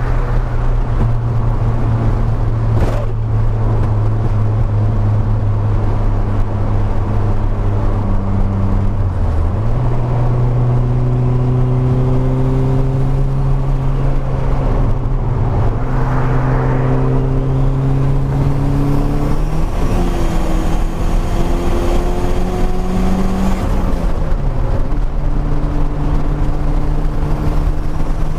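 Car engine running while driving, a steady drone whose pitch shifts about ten seconds in, climbs slowly, then steps around twenty seconds in and drops a few seconds later as engine speed changes.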